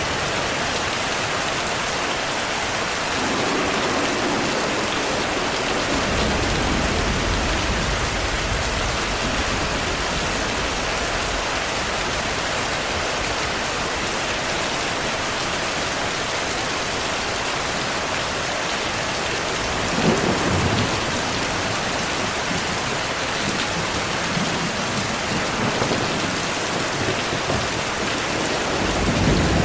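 Heavy, steady rain with rolls of thunder. A low rumble swells a few seconds in, a sharper clap-and-rumble comes about two-thirds of the way through, and more rumbling builds near the end.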